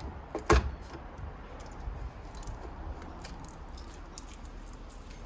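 Clicks and light knocks from tools and computer parts being handled, with one sharper knock about half a second in.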